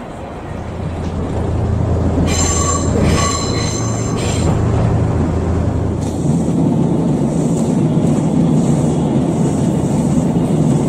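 A train running past with a steady low rumble that builds over the first two seconds. From about two to four and a half seconds in, a high tone sounds in three short pulses.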